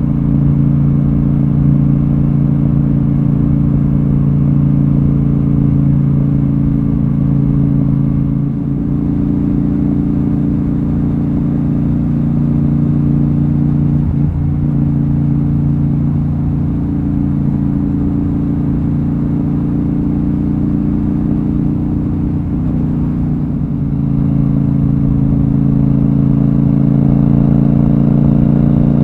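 Royal Enfield Super Meteor 650's parallel-twin engine running steadily on the move. The note dips briefly three times, then rises in pitch near the end as the bike accelerates.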